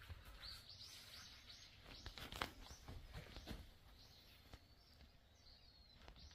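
Faint outdoor ambience: a bird chirping a quick run of short high notes in the first second and a half, then a few soft rustles and knocks around the middle.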